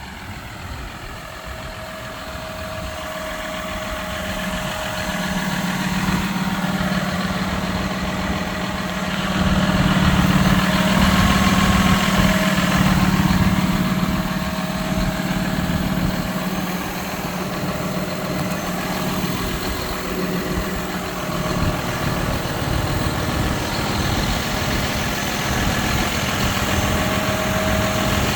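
John Deere 6155R tractor's six-cylinder diesel engine idling steadily, growing louder over the first ten seconds or so, then holding steady.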